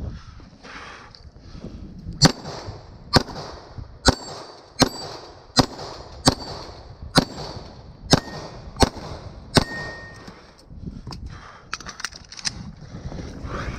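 A string of about ten gunshots, one every three-quarters of a second or so, several followed by a brief ringing tone. Softer clicks and knocks come near the end.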